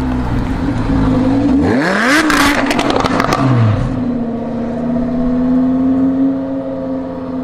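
Supercar engine revving: the pitch climbs sharply about two seconds in, then falls back with a run of crackles and pops from the exhaust, before settling into a steady drone.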